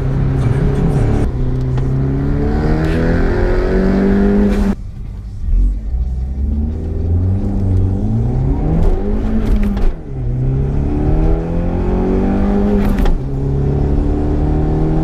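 Turbocharged Dodge Dart 1.4 four-cylinder with a Magnaflow cat-delete exhaust pulling hard under boost. The engine note climbs steadily, then falls away suddenly at gear changes about five, ten and thirteen seconds in before climbing again.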